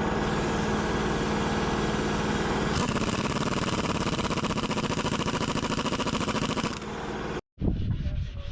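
An engine running steadily. About three seconds in its note changes to a brighter, faster pulsing, and it drops and cuts off abruptly near the end.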